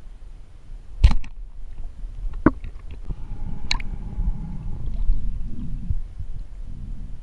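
Water sloshing and gurgling with a low rumble, broken by three sharp knocks, the loudest about a second in.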